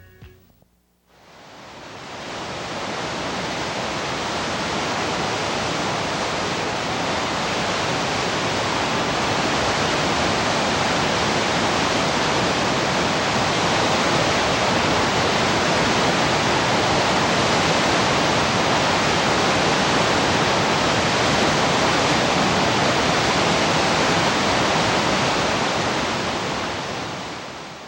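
A steady, even rushing noise with no tone or rhythm. It fades in about a second in and fades out near the end.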